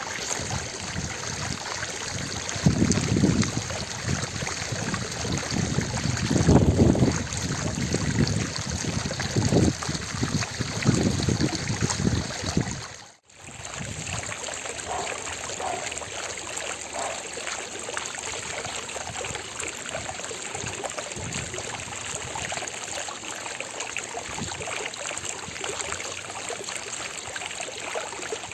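Water fountain splashing in a steady rush, with deep rumbling surges through the first half. The sound cuts out for a split second just before halfway, then resumes.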